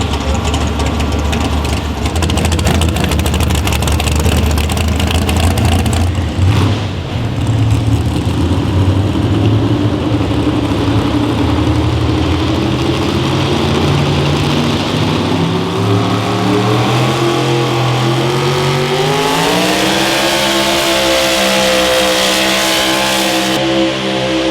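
Pulling vehicle's engine running hard under load, its pitch climbing steeply about two-thirds of the way through and then holding high.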